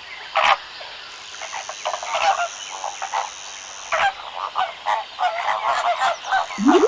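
A flock of flamingos honking, with many short, irregular goose-like calls overlapping. Near the end comes a quick rising, whistle-like transition sound effect.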